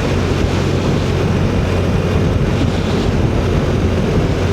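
Motorcycle running steadily at road speed, its engine a constant low hum under the rush of wind buffeting the microphone.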